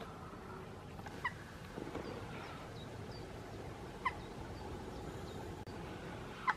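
A bird calling outdoors: three short notes that slide downward in pitch, a few seconds apart, with a few fainter, higher chirps between them.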